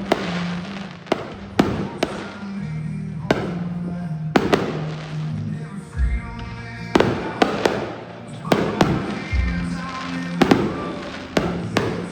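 Fireworks bursting in a show, about a dozen sharp bangs at irregular intervals, over music with steady low notes.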